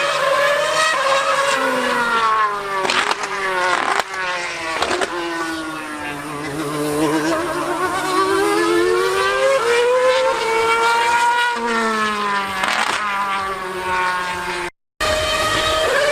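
2013 Formula 1 car's 2.4-litre V8 engine at racing revs. The pitch climbs and falls again and again, with several sharp breaks from gearshifts. The sound cuts out completely for a moment about 15 seconds in.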